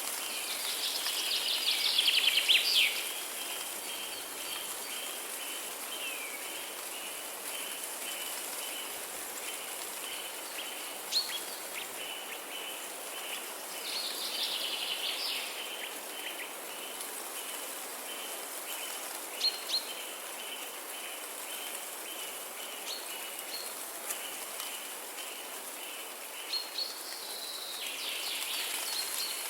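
Birdsong in a natural soundscape: bursts of fast warbling song about two seconds in, midway and near the end, and a few single sharp chirps. Behind them run a steady watery hiss and a high note repeated about twice a second.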